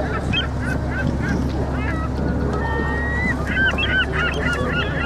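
Many short bird calls in quick succession, sparse at first and crowding together in the second half, over the steady low hum of the boat's engine.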